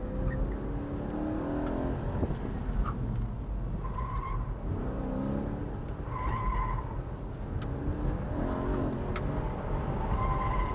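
BMW E90 M3's V8 engine revving up three times in rising sweeps under hard acceleration. Its Michelin Pilot Super Sport tyres squeal briefly in corners, about four seconds in, again around six to seven seconds, and near the end.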